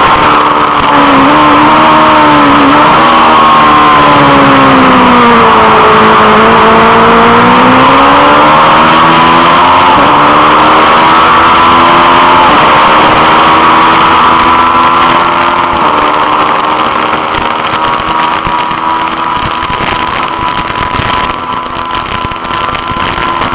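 Honda CB500 parallel-twin race engine heard from onboard. The revs drop through a corner, then it pulls hard through the gears with three quick upshifts midway. Near the end it holds a steady high pitch on the straight, over a constant rushing hiss.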